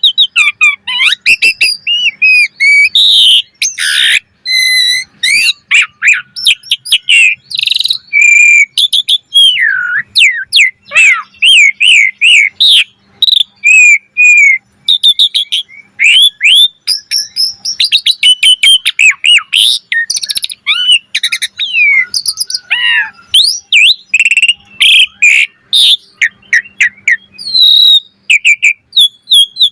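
Asian pied starling (jalak suren) singing vigorously and without a break: a rapid, varied stream of whistled rising and falling notes mixed with sharp clicks.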